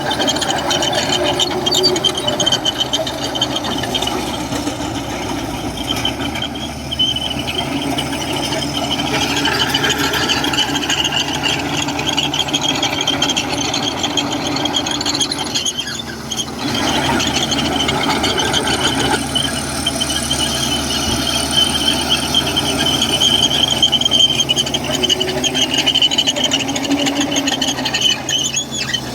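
Komatsu bulldozer working, its diesel engine running under the high squeal and clatter of its steel crawler tracks.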